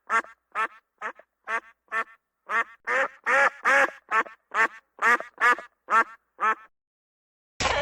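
An animal giving a long run of short, pitched calls, about fifteen of them at roughly two a second, which stop about seven seconds in. A loud, rough sound cuts in suddenly at the very end.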